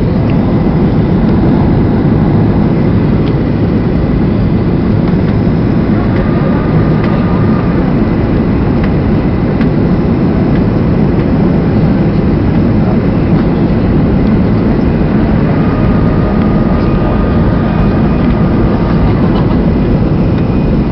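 Steady cabin noise of a Ryanair Boeing 737-800 on approach: the deep, even rumble of its CFM56 jet engines and the airflow over the fuselage, unchanging in level, with a faint high tone heard twice.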